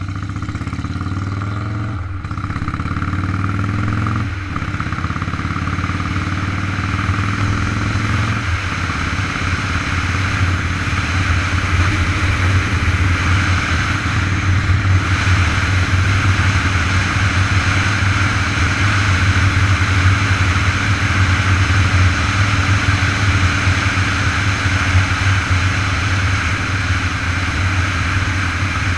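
Motorcycle engine accelerating up through the gears, with shifts about two, four and eight seconds in, then pulling steadily at speed with a growing rush of wind noise.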